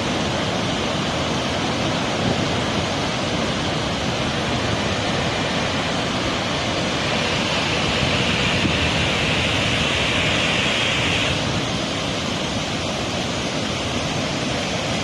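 Floodwater rushing in the Krishna river, a steady loud rush of water, with a brighter hiss from about seven to eleven seconds in.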